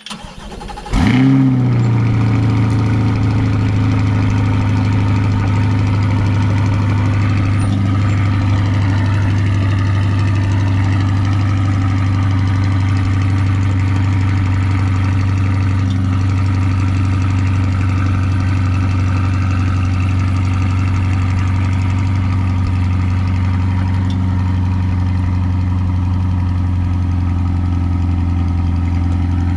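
2020 Chevrolet Corvette C8's 6.2-litre LT2 V8 cold-starting: a brief crank, then it fires about a second in with a short rev flare and settles into a steady idle.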